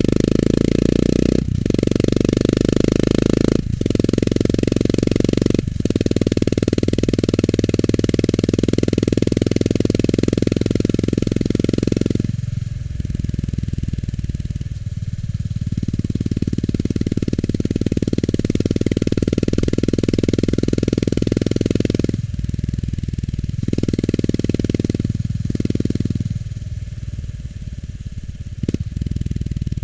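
Honda GB350S's air-cooled single-cylinder engine through its stock muffler while riding: a loud, low exhaust note with three brief breaks in the first few seconds. It eases off about 12 seconds in, comes back up, then drops away in several dips near the end.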